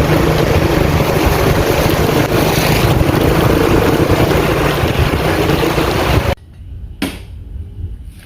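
Heavy rain pouring down in a loud, steady roar. It cuts off suddenly about six seconds in, leaving much quieter sound with a couple of sharp knocks.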